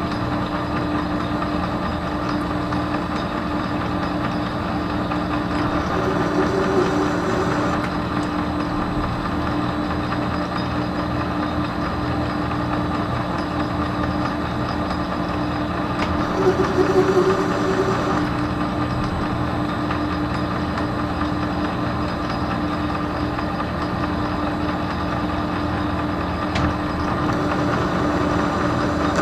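Metal lathe running steadily under power with its gears humming, while threading a shaft. Twice, about 7 and 17 seconds in, the sound briefly grows louder and brighter as the cutting tool takes a light finishing pass along the thread.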